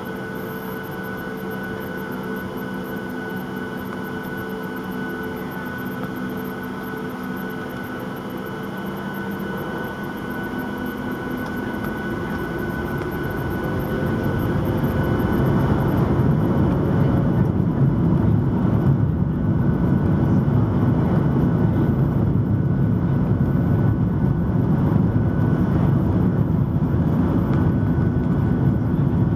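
Boeing 737-900's CFM56-7B turbofan engines heard from inside the cabin: a steady whine at low power, then from about halfway the engines spool up to takeoff thrust and the sound grows much louder into a dense, steady rush as the takeoff roll begins.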